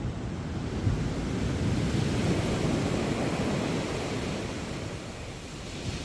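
Sea waves breaking and washing up a beach: a wave's rush swells about two seconds in, eases off, and builds again near the end, with a low rumble of wind on the microphone.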